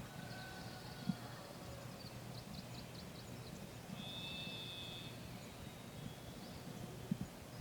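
Small birds calling faintly: a few high, clear whistled notes and a quick run of short chips, over a low steady hum, with soft knocks about a second in and near the end.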